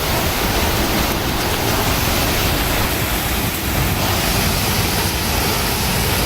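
Heavy rain pouring down in a storm, a steady loud rush of noise.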